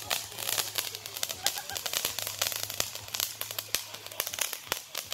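Fireworks going off, a rapid, uneven run of sharp cracks and pops, several a second, over a steady low hum.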